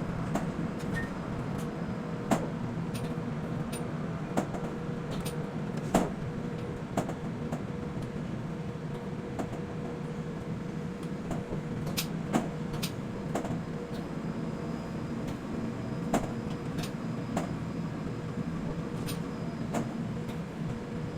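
Steady hum of quay container crane machinery with two steady tones. Sharp clicks and clanks come at irregular intervals, about a dozen in all.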